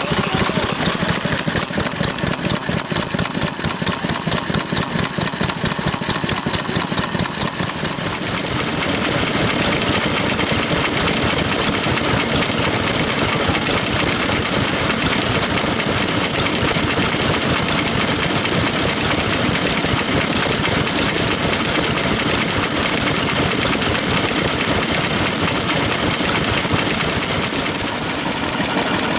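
Vintage stationary engines running with a steady, fast knocking beat. About eight seconds in the sound changes, as if a different engine comes to the fore.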